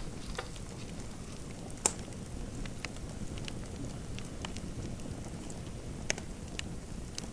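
Wood fire crackling in a fireplace: a steady low rush with scattered sharp pops and ticks. The loudest pops come about two seconds in and again about six seconds in.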